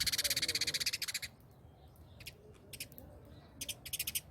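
Small birds chattering and squabbling while feeding: a fast, buzzy rattling chatter that breaks off a little over a second in, then scattered short calls, with a brief flurry near the end.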